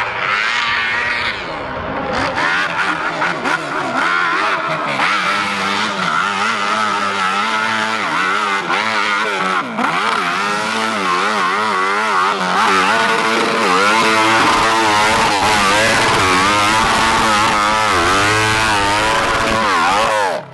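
Modified hill-climb motorcycle engine revving hard, its pitch swinging up and down again and again as the throttle is worked. It cuts off suddenly near the end.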